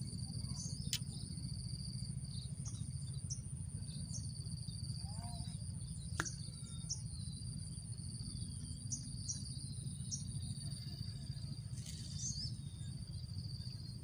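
Insects drone in a steady, high, unbroken note, with short bird chirps scattered through, over a steady low rumble.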